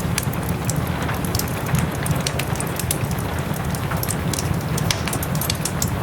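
Steady rain mixed with a crackling wood fire in a fireplace: a constant hiss and low rumble with many quick, sharp pops scattered throughout.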